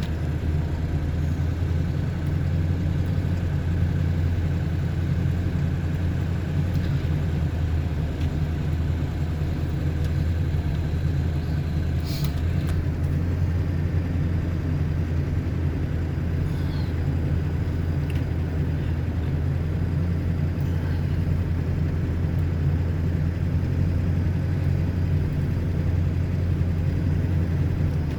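Ford F-350 pickup driving on a snowy road, heard from inside the cab: a steady low drone of engine and road noise. A single short click about halfway through.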